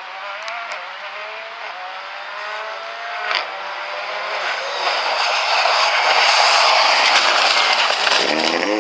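Rally car engine climbing in pitch over the first few seconds, then a loud, growing rush of engine and tyre noise from about five seconds in as the car comes close.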